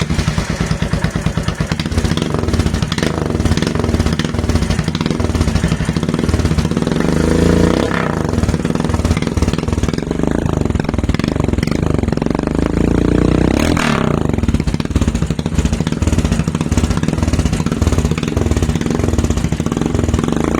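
Royal Enfield Himalayan's single-cylinder engine running with its DB killer (baffle) removed from a Red Rooster aftermarket silencer, a rapid open-pipe thumping at idle. The throttle is blipped twice, around a third of the way in and again past the middle.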